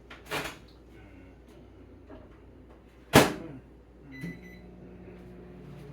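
Microwave oven being loaded and started: a knock as the door opens, then the door slams shut with a loud bang about three seconds in. A short keypad beep follows, and the oven starts running with a steady low hum.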